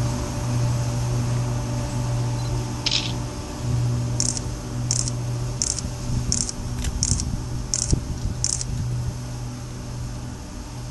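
KORAIL locomotive approaching from a distance, a steady low drone. About four seconds in, seven short high-pitched chirps come at even spacing, roughly two-thirds of a second apart.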